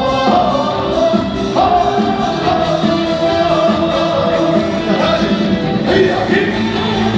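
Live trot music: a male voice singing a melody of long held notes over a full band, played loud through a concert PA.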